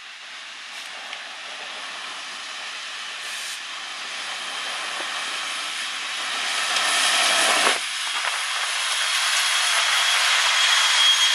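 Norfolk Southern freight train with its diesel locomotives approaching and passing close by: a steady rushing noise that grows louder as the units draw level. A thin, high, steady squeal joins in near the end.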